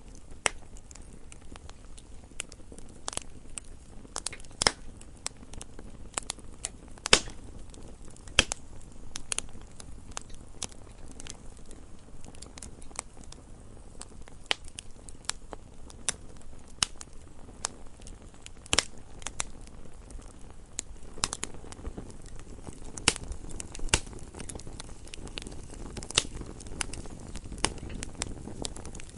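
Campfire crackling: irregular sharp pops and snaps from burning wood over a low steady rush of flames.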